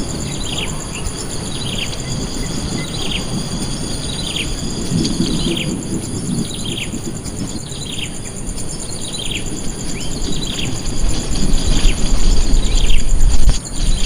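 A bird calling over and over: short, sharply falling chirps about once a second, over a steady high insect buzz. A loud low rumble comes in for the last few seconds.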